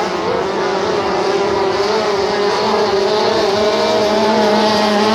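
Outboard engines of racing tunnel boats running hard at high revs, a steady drone that edges up in pitch and grows a little louder toward the end.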